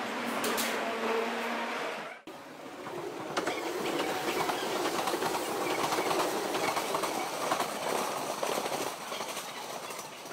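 A steady hum for the first two seconds. Then, after a sudden cut, an electric train runs through a junction, its wheels rumbling and clicking over the points and rail joints.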